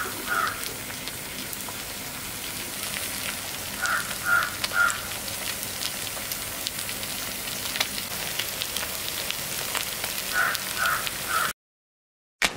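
A bird calling in runs of about three short calls, three times over, against a steady faint crackling hiss. The sound cuts off shortly before the end.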